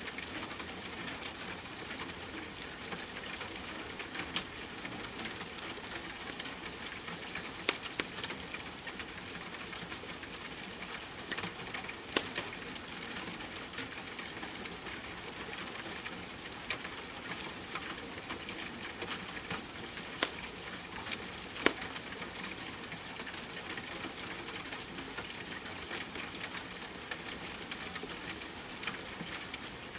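Steady rain mixed with a crackling wood fire, small crackles throughout and a few sharper pops standing out.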